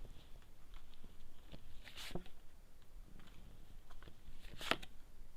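A few soft rustles and taps of tarot cards being handled and laid down, the most distinct about two seconds in and again near the end.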